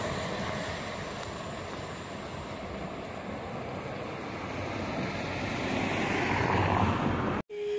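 Electric regional train running away along the track, its rail and running noise dying down, then swelling again for a few seconds. The sound cuts off abruptly near the end and gives way to a steady pure tone.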